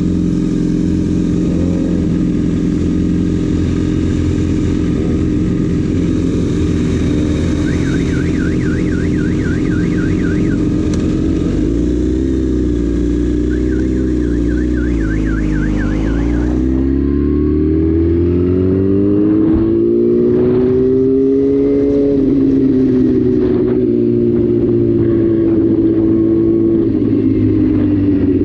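Yamaha sport bike's inline-four engine idling, while a fast warbling alarm-like tone sounds twice. About halfway through, the engine rises in pitch as the bike pulls away and then runs on at a steady speed.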